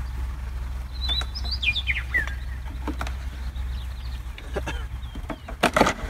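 A bird chirps a short run of falling notes about a second in, over a steady low hum. Scattered clicks and knocks sound through it, the loudest near the end.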